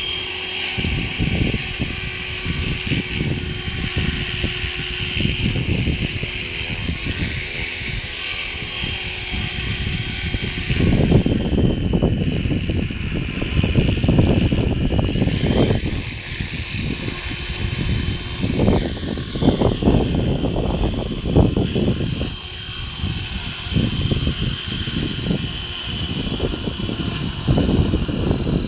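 E-Razor 450 electric RC helicopter's motor and rotor whining steadily as it hovers, the pitch shifting in the later part. Strong gusty wind buffets the microphone throughout, heaviest about a third of the way in.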